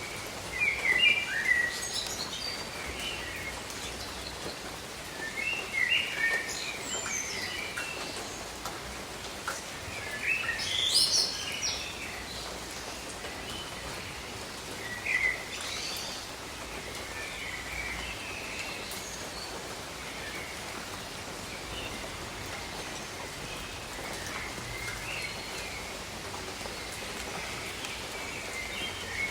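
Steady rain falling on tropical jungle, with birds calling on and off over it in short chirping phrases. The loudest bird calls come about a second in, around six seconds and around eleven seconds.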